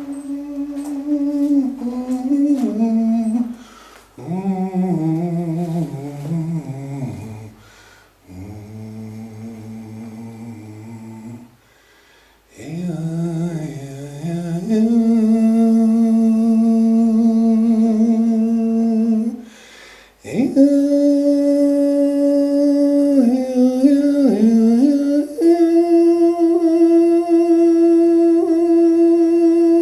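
A voice humming and singing long held notes inside a small earthen sound chamber, in about six phrases with short breaths between. Some phrases glide up and down, and the later ones are sustained steadily for several seconds, the last note held to the end.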